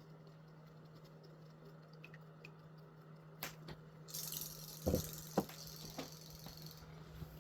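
Water splashing in a plastic bucket for a few seconds as a kitten paws at a swimming fish toy, with two knocks against the bucket midway, over a faint steady hum.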